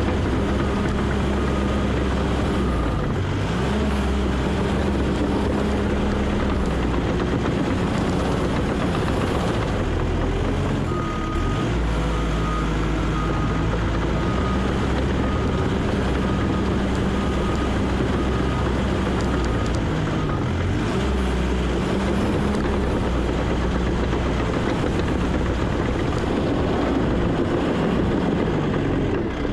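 Heavy earthmoving machine's diesel engine running under changing load. Its backup alarm beeps steadily while it reverses, for the first few seconds and again from about 11 to 20 seconds in.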